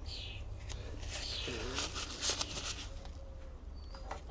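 Towel rubbing along a fishing rod tip, wiping excess epoxy glue from a freshly glued tip ring: soft hissing rubs in short strokes, with a few small knocks near the middle.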